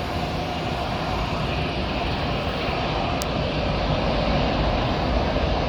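Boeing 737 MAX 8's CFM LEAP-1B jet engines running, a steady engine noise that grows slightly louder, heard from outside the aircraft. There is a brief faint click about three seconds in.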